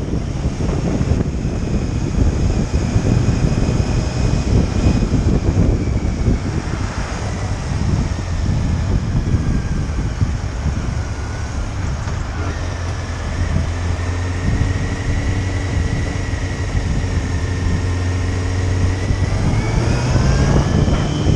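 Motorcycle engine running under way, with wind rushing over the microphone. The engine note holds steady for a stretch, then rises near the end as the bike speeds up.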